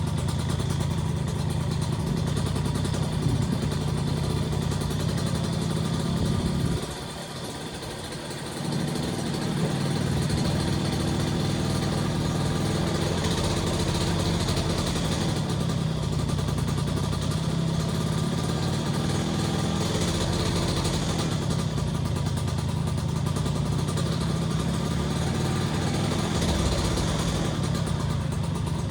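Small motorcycle engine with a PWK28-type carburettor, running at idle with no throttle input. Its speed sags noticeably about a quarter of the way in, then picks up again. The idle rises and falls on its own, hunting, after a stock No. 3 cutaway slide was fitted; spraying parts cleaner around the intake manifold made no difference, so an air leak there seems unlikely.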